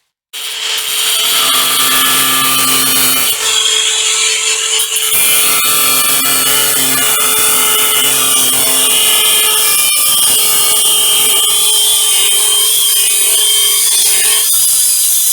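A power tool running continuously under load with a steady motor whine, starting abruptly a moment in.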